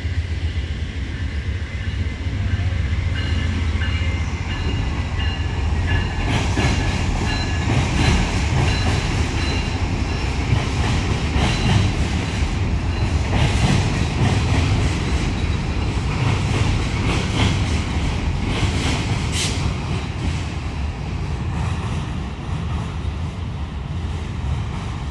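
Amtrak passenger train crossing a steel truss bridge: a steady heavy rumble from the wheels and cars, with irregular clacking as the wheels pass over rail joints. A thin high ringing runs through the first six seconds or so.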